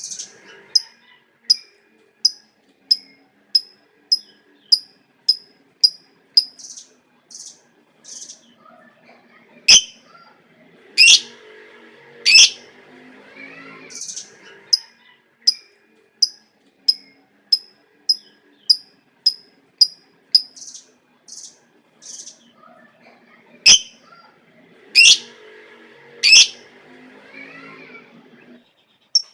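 Lovebird chirping: a regular series of short, high chirps, about one and a half a second, broken twice by bursts of louder, longer shrill calls.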